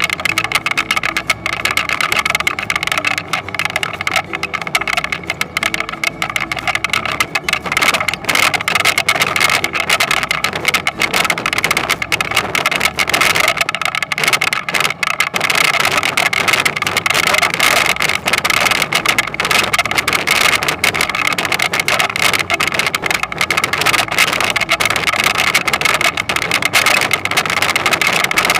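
Toyonoki potato harvester at work: the engine runs steadily under a dense, continuous clatter of rattling machinery.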